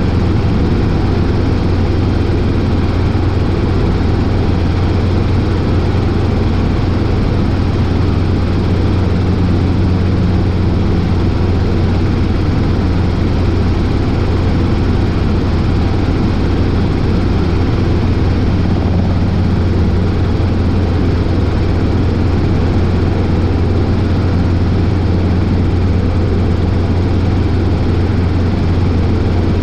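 Robinson R22 helicopter in flight: its four-cylinder Lycoming piston engine and rotor make a steady, loud, low drone that does not change.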